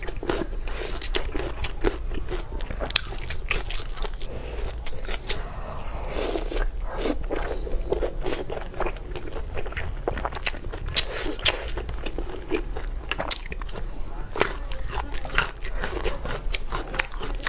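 Close-miked chewing and biting of meat: a steady run of wet, crunchy mouth clicks and smacks at an uneven pace.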